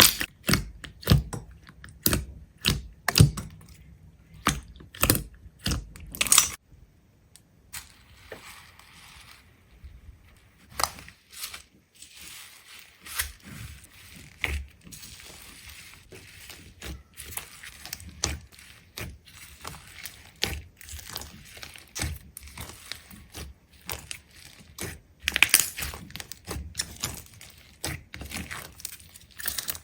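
An irregular run of sharp clicks and crunching taps from small hard objects. They are dense and loud for the first several seconds, sparser through the middle, and dense again near the end.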